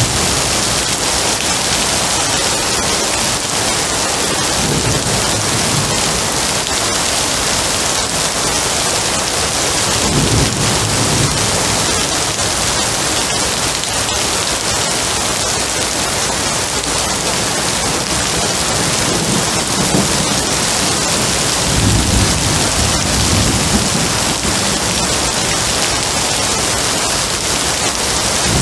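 Steady heavy rain hissing, with low rolls of distant thunder rumbling up several times.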